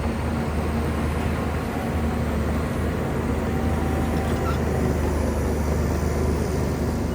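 Shantui bulldozer's diesel engine running steadily, a low even drone with no break or change in pitch.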